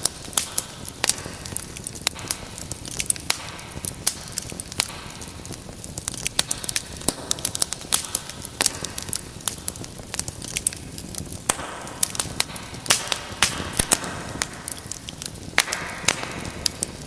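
Wood fire burning with irregular sharp crackles and pops over a steady hiss of flames.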